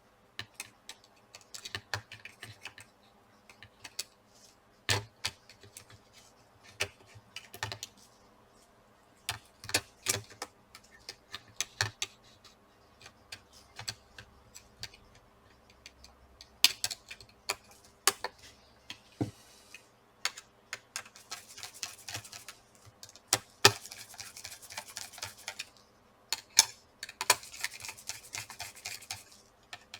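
Scattered sharp clicks and light taps of small metal and plastic parts as a laptop's heatsink and fan assembly is set back in place, with stretches of faint scratching in the last third.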